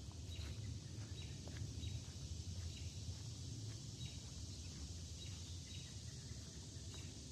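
Summer woodland ambience: a steady high hiss of an insect chorus, with faint short bird chirps repeating through it and a low rumble underneath.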